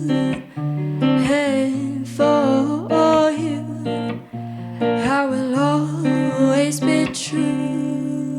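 Acoustic guitar playing sustained chords, with a singing voice gliding between notes over them.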